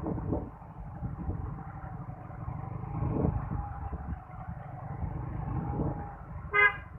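Yamaha Mio scooter riding along a road: low engine and road rumble with a wavering engine tone. A short, loud horn beep sounds near the end.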